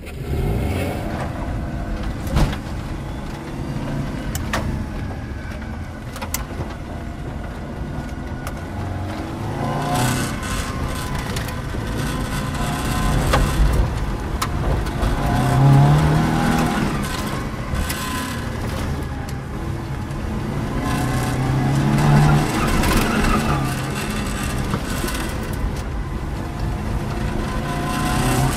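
Classic Ford saloon's engine driven hard through a cone course, rising in pitch as it accelerates several times, heard from a camera mounted on the outside of the car.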